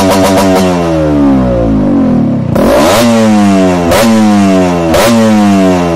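Yamaha RX135 single-cylinder two-stroke motorcycle engine with a racing expansion chamber exhaust, being revved. The revs fall away from high over the first couple of seconds, then the throttle is blipped sharply three times, the engine spinning up and dropping back each time.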